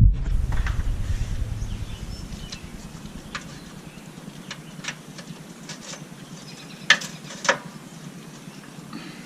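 Scattered light clicks and knocks of hand tools on metal, with two sharper clicks about seven seconds in, over a low rumble that fades out in the first few seconds.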